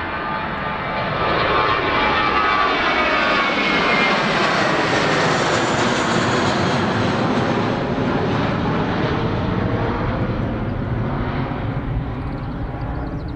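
Jet airliner's engines at takeoff power as it passes by: a wide jet rush that swells over the first couple of seconds, holds, then slowly fades, with a sweeping, phasing tone as the aircraft goes past.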